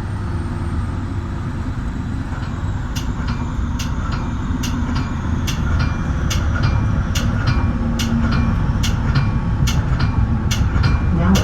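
Metra bi-level commuter train running on the line, heard from inside the front cab car: a steady low rumble. From about two and a half seconds in, sharp clicks come roughly twice a second.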